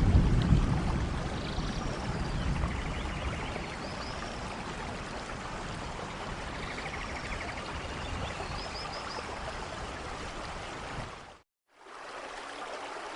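Steady downpour of rain in a forest, with a low thunder rumble in the first second that fades away and a few faint high chirps. Near the end the sound cuts out completely for about half a second and comes back quieter.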